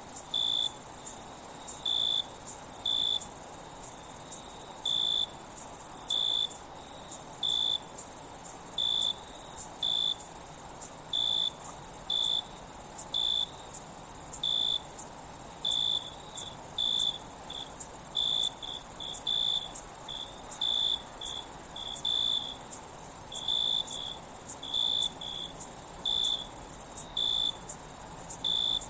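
Night insect chorus: a steady, shrill high-pitched trilling of many insects, with a cricket chirping lower down, about one to two chirps a second at an uneven pace.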